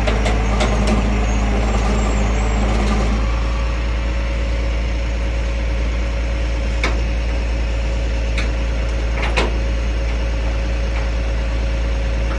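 Tow truck's engine running steadily while loading a vehicle, with a steady whine joining in about three seconds in and a few light clicks.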